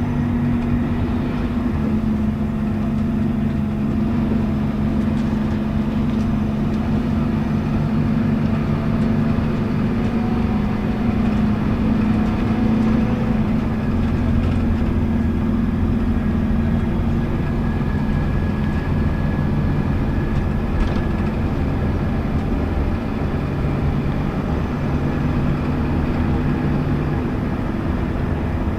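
Interior sound of a Scania K280UB city bus under way: its engine and ZF automatic drivetrain give a steady low drone over the rumble of the road.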